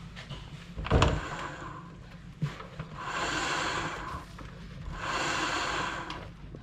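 A Can-Am ATV's drivetrain being turned by hand to slosh freshly added gear oil through its gears. There is a knock about a second in, then two rubbing whirs of about a second each as it turns.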